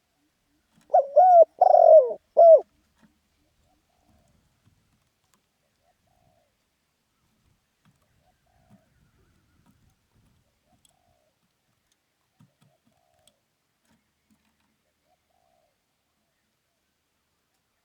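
Spotted dove cooing: one quick phrase of four arched coos about a second in.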